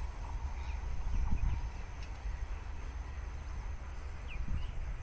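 A few short, faint bird chirps over a steady low rumble.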